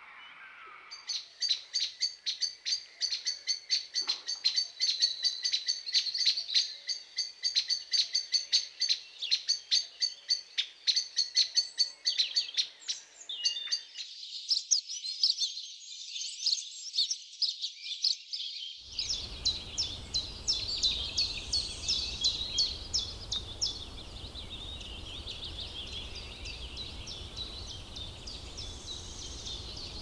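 Birds calling: a rapid series of sharp, repeated chirps, several a second, giving way to a denser chattering chorus. A low background rumble comes in about two-thirds in.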